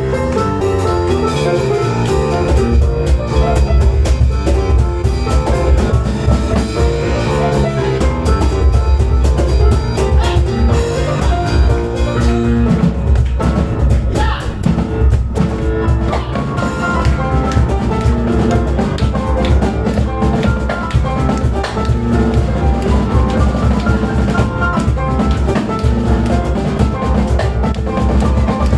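Live instrumental music: piano played together with a drum kit and cajon, with busy drumming over the piano's melody and chords and a heavy low end.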